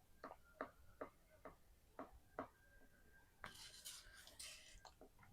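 Faint writing sounds: a handful of light taps, then a short scratchy stretch of writing about three and a half seconds in.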